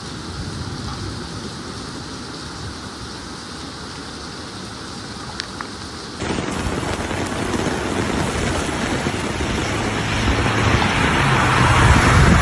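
Heavy rain falling in a steady hiss. About six seconds in, it cuts abruptly to a louder rush that builds toward the end, with a low rumble underneath.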